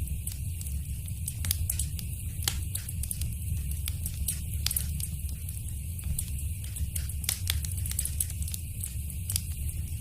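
Fire crackling in a fireplace: frequent, irregular sharp pops and snaps over a steady low rumble and a faint hiss.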